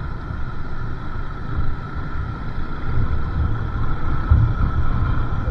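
Moving motorcycle with wind buffeting the microphone: an uneven low rumble over a steady hum.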